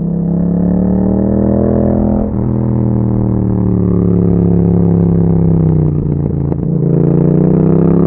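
2021 Yamaha MT-07's 689 cc parallel-twin engine through an Akrapovic exhaust, pulling under throttle: the pitch climbs, drops sharply at a gear change about two seconds in, and climbs again. Around six seconds in the pitch falls with some rough crackle before rising once more as it accelerates.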